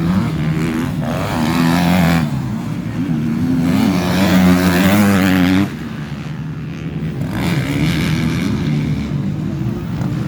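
Motocross bike engines revving hard, the pitch rising and falling with each throttle change. About halfway through the loud engine sound drops suddenly, leaving quieter engines still running.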